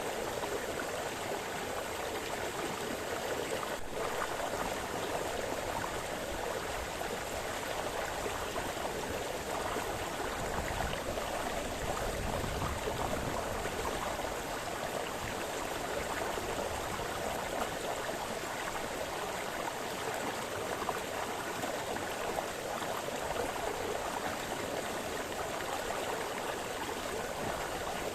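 A small forest brook splashing and burbling over stones, a steady even rush of water.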